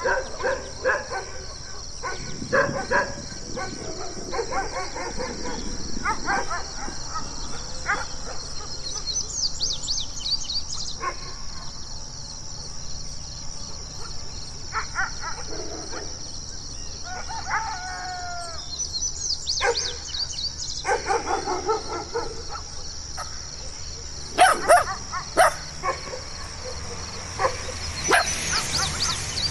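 Dogs barking in short bouts, with a dog howling, and a few loud sharp barks near the end. A steady high-pitched background tone runs underneath.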